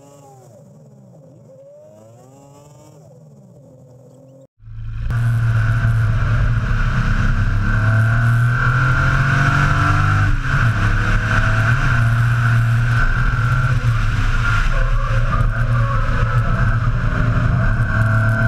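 Drift car's S38 straight-six engine, at first faint with its pitch rising and falling. After a sudden cut about four and a half seconds in, it becomes a loud, steady, dense engine sound with shifting pitch.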